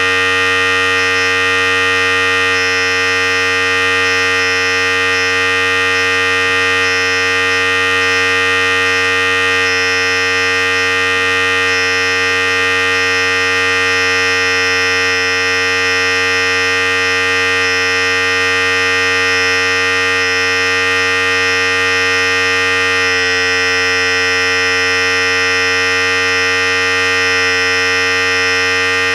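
Philips Series 5000 hair clipper running continuously: a steady electric buzz and hum with an even, unchanging pitch, its tone shifting slightly about two-thirds of the way through.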